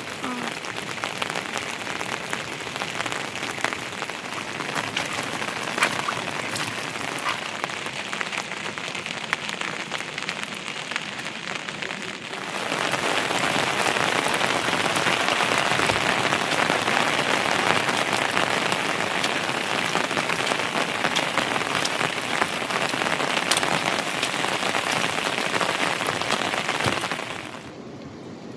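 Heavy rain falling on a surface, a steady hiss with individual drops ticking through it. It grows louder about twelve seconds in and drops off suddenly near the end.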